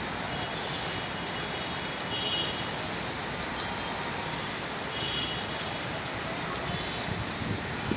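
Heavy rain falling steadily, an even hiss with no let-up, with a few faint short high chirps on top.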